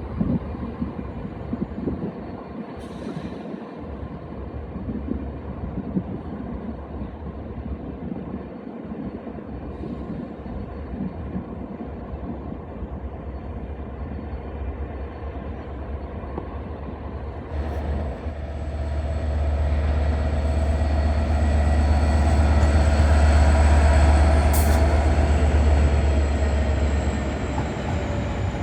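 Pair of Class 69 diesel locomotives with EMD 12-710 engines hauling a railhead treatment train as it departs. After a long low rumble, the engine note swells about two thirds of the way in, loudest a few seconds later, then eases off near the end with a faint high whine.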